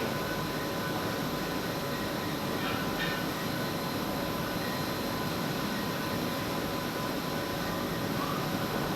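Steady running noise of wastewater treatment plant machinery: an even mechanical rush with several constant hums.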